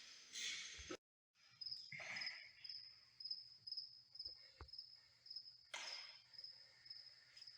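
Faint crickets chirping in a steady high pulsing trill, about three chirps a second, over a low hum, with two short hisses about two and six seconds in.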